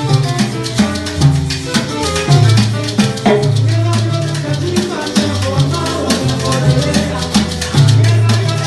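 Salsa music playing: a moving bass line under melodic notes, with a steady beat of drums and maracas.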